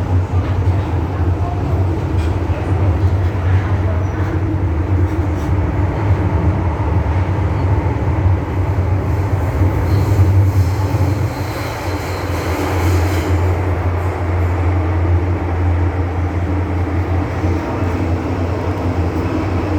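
MTR M-Train electric metro train running between stations, a steady low rumble of wheels on rail and running gear. A brief patch of higher hissing noise comes in a little past the middle.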